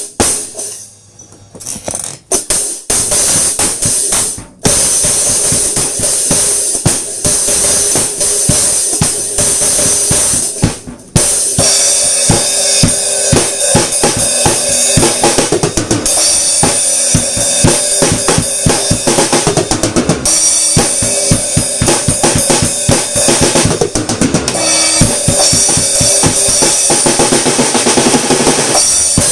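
Ludwig drum kit with new Remo Pinstripe heads played in beats: a few scattered hits at first, then a steady groove of bass drum, snare and cymbals, with a short break about eleven seconds in.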